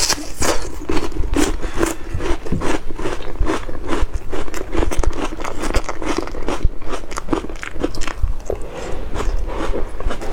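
Close-miked eating: loud, rapid crunching and chewing of crisp food, a dense run of irregular crunches.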